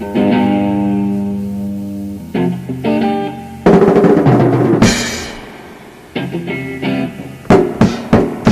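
Live improvised rock: guitar chords struck and left ringing, then drum kit hits with snare and bass drum, a loud crash about halfway through, and a run of quick drum strokes near the end.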